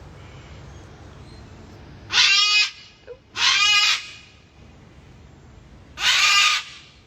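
Sulphur-crested cockatoo screeching: three loud, harsh, raspy screeches of about half a second each, two close together and a third a couple of seconds later.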